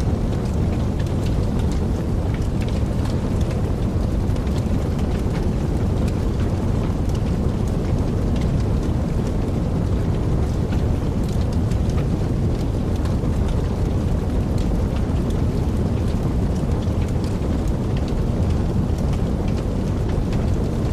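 Wood fire burning in a fireplace: a steady low rumble with many small, gentle crackles and pops scattered throughout.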